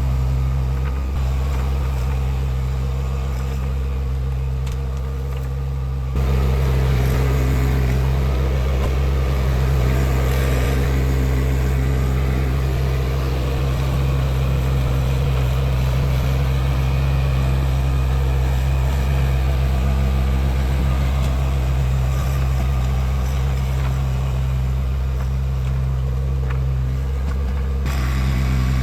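Tractor engine running steadily, getting louder about six seconds in.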